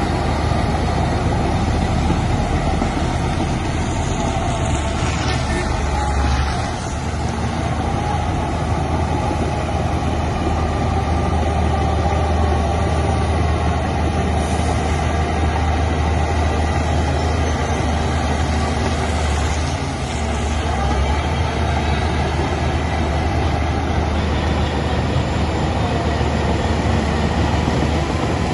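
Heavy diesel earthmoving machinery running steadily, a loud low engine drone that eases briefly a little after six seconds and again around twenty seconds.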